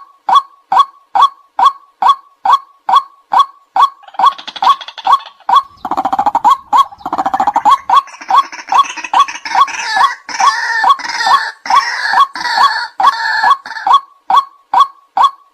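White-breasted waterhen calling: a short note repeated steadily about two and a half times a second. From about four seconds in until near the end, a harsher, fuller calling joins it, then the repeated notes carry on alone.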